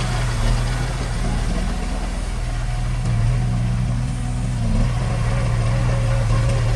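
Heavy construction-machine diesel engine running steadily, its low note dipping briefly about two seconds in before picking up again.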